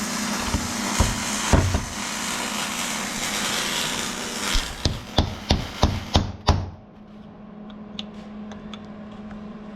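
Hammer blows on a punch, driving a part out of a Polaris RZR's rear portal gear case. A couple of single knocks come first, then a quick run of about six strikes around the middle, over a steady rushing noise that cuts off right after them.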